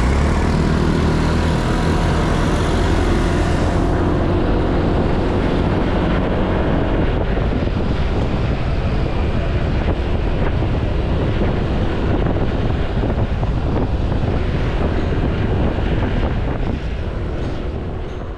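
Honda Click 160 scooter's single-cylinder engine running under way, with steady wind rush on the microphone and road noise; the engine tone is clearest in the first few seconds, and the sound fades out near the end.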